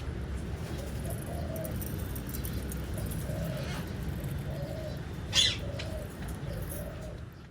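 Birds calling: short, low, arched notes repeat about once a second, and one brief sharp higher call comes about five seconds in, over a steady low rumble.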